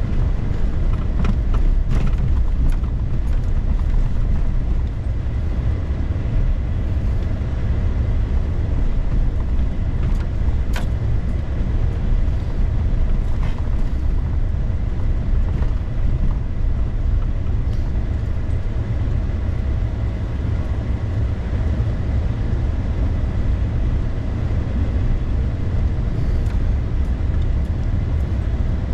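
Car driving, a steady low rumble of engine and road noise, with a few light knocks.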